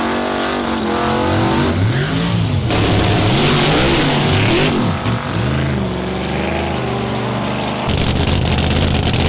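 A high-performance car engine revving hard, its pitch climbing and falling several times in quick succession, with a rushing hiss in the middle and a harsher noisy stretch near the end.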